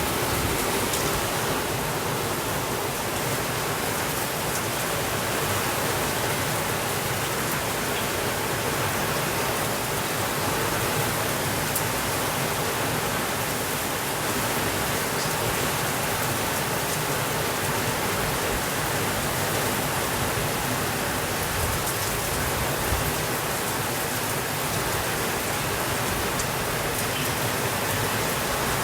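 Heavy rain falling steadily on a window, an even hiss with a few faint ticks.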